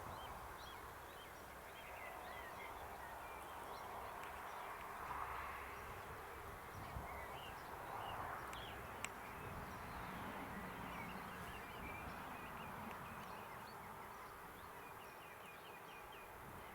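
Small birds chirping and twittering, with short calls and a quick run of repeated notes near the end, over a steady outdoor hiss and low rumble.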